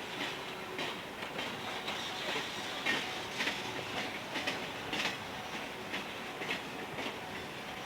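Railroad cars rolling past on jointed track: a steady rumble of wheels on rail, with wheel clicks over the rail joints coming about once or twice a second.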